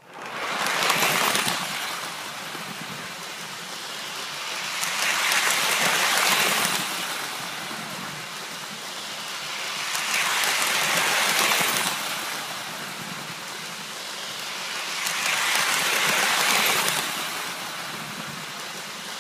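Lionel toy electric train running around its track, a steady whirring rumble that swells and fades about every five seconds as it loops past. It starts suddenly.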